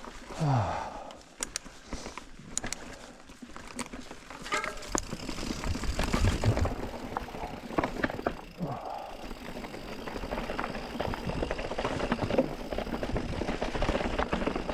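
Mountain bike rolling over rocky, rooty singletrack: irregular rattling clicks and knocks from the bike and tyres over a rushing rumble that gets louder from about five seconds in, with a short falling grunt from the rider near the start.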